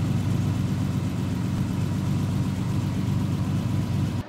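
Lamborghini Countach's V12 engine idling steadily with a deep, even low rumble.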